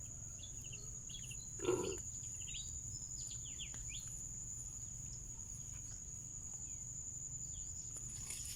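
Insect chorus with a steady high-pitched trill and scattered short chirps, mostly in the first few seconds. A single brief dull thump or splash comes a little under two seconds in.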